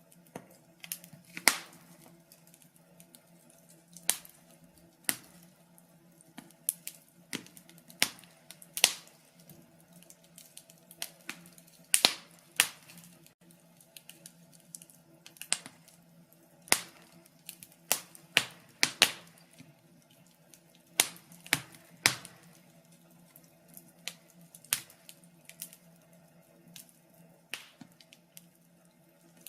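Wood fire crackling: irregular sharp pops and snaps, roughly one or two a second, some much louder than others, over a faint low steady hum.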